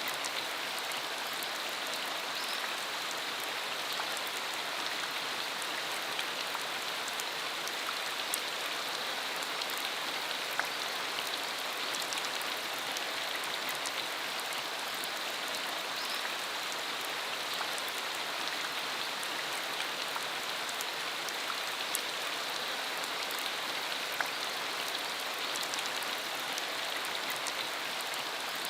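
Steady rain shower falling, an even hiss with scattered sharp ticks of single drops.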